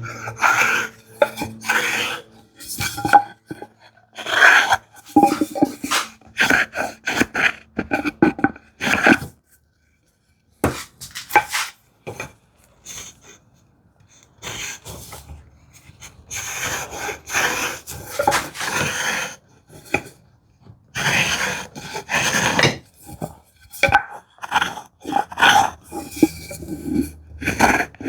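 Hand plane worked along the edge of a wooden board: irregular scraping strokes with knocks and clinks of tools on the bench, and a short pause about ten seconds in.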